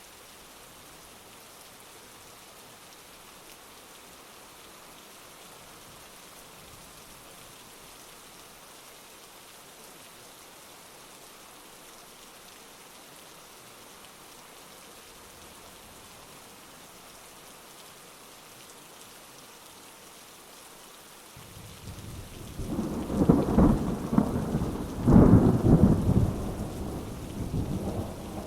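Steady heavy rain hissing. About twenty seconds in, a thunderclap breaks in with a deep rumble that swells twice, is loudest a few seconds later, and then rolls away.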